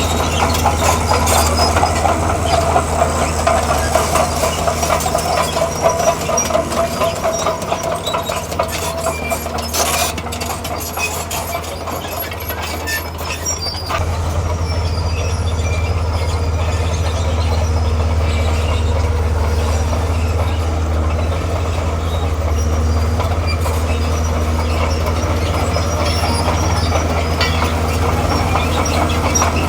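D41P crawler bulldozer working: its diesel engine running under load with the steel tracks clanking and squealing. It eases off a little around the middle and runs harder again from about halfway.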